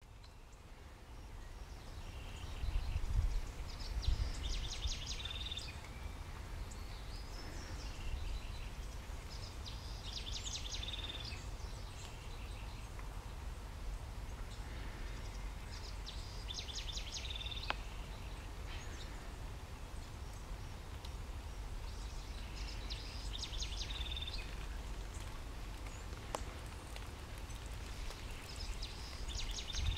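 A bird singing a short high phrase, a fast trill that ends on a briefly held note, five times at about six-second intervals, over a steady low rumble.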